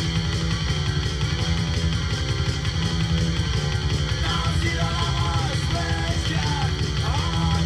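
Rock band playing a song: steady, loud guitars, bass and drums, with a singing voice coming in about four seconds in.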